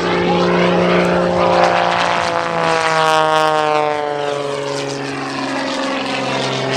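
Propeller airplane's piston engine passing by on a low pass, its engine note dropping in pitch as it goes past, about three seconds in.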